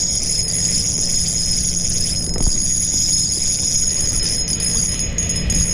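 Steady high-pitched insect chorus with a shimmering, trilling quality, over a low rumble of handling or water noise.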